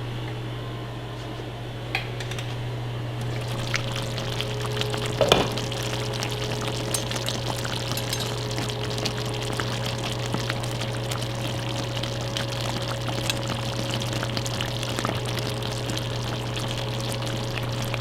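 Pot of seafood kare-kare simmering, with dense bubbling and crackling that picks up about three seconds in, over a steady low hum. A single knock about five seconds in.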